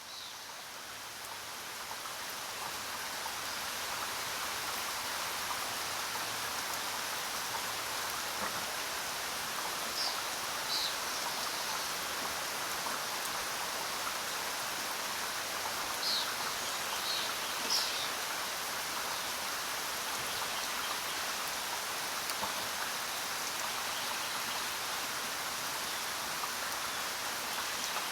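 Steady heavy rain, swelling in over the first few seconds and then holding even. A bird gives a few short high chirps: twice around a third of the way in, then three more a little past the middle.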